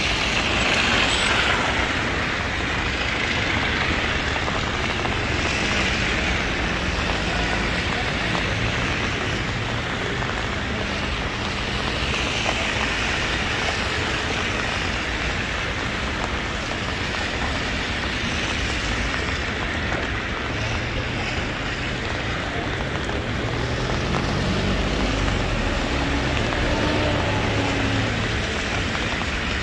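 Heavy rain falling steadily with road traffic passing on the wet street, and a vehicle engine humming near the end.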